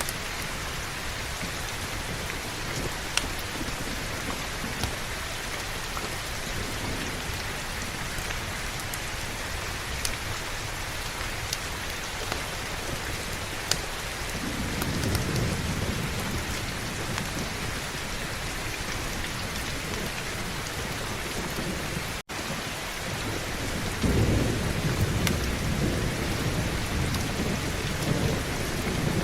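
Steady heavy rainfall with a few scattered sharp clicks, and low rolling thunder that swells twice, about halfway through and again in the last few seconds. The sound drops out for an instant about three-quarters of the way through.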